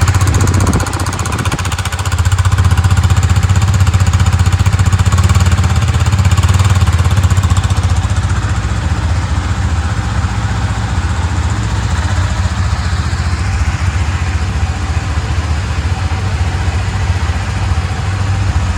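KTM RC 390's single-cylinder engine running at idle through its new exhaust, a steady low beat, a little louder for the first several seconds after a brief dip about a second in, then settling.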